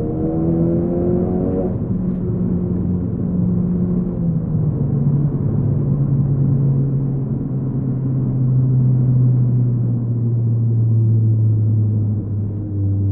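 A 2015 Ford Focus ST's turbocharged four-cylinder running through a Roush exhaust, heard from inside the cabin. It revs up briefly, its pitch drops twice as it shifts up, and then it settles into a steady low hum at cruise, the exhaust drone typical of this Roush exhaust at low revs.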